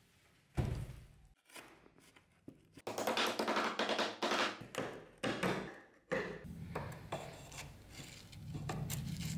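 Wooden knocks, taps and scraping as parts of an old wooden ice box are handled and taken apart, with a cluster of sharp knocks in the middle.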